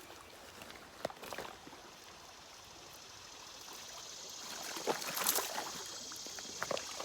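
Creek water running steadily, with a brief splash about five seconds in.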